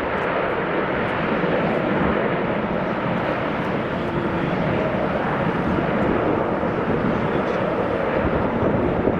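Jet airliner's engines, loud and steady: a dense rushing noise with no distinct tones.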